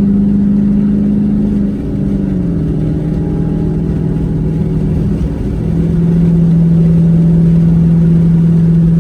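Car engine running steadily with a loud, even drone; its pitch drops a little about two seconds in, then holds.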